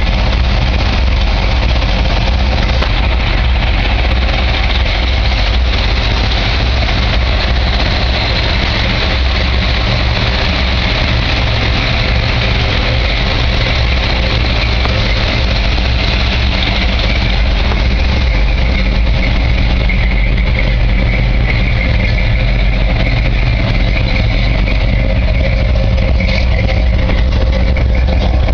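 1967 Chevrolet C-10's 350 small-block V8, bored .040 over with a .447-lift, 287-duration cam, idling steadily through dual Flowmaster exhausts.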